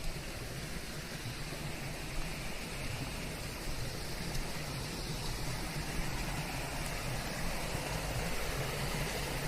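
Steady rain blended with a layer of white noise: an even hiss with a low rumble beneath, swelling slightly toward the end.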